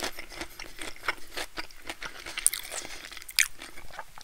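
Close-miked chewing of a breaded fried pickle: a run of irregular crisp crunches, two of them louder in the second half.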